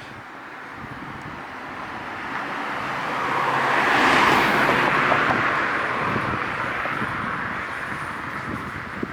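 A motor vehicle passing close by on a city street: its tyre and engine noise swells to a peak about four seconds in, then fades away.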